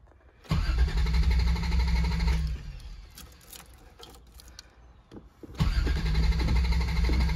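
1987 Toyota Supra's straight-six turned over by the starter motor without catching, in two goes: about two seconds of cranking, a pause with a few clicks, then cranking again from just past halfway. The engine gets no spark, which the previous owner put down to a faulty sensor.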